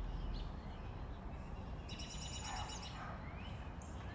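A songbird singing: a short rising note, then a fast trill about two seconds in, with fainter rising notes after it, over a low background rumble.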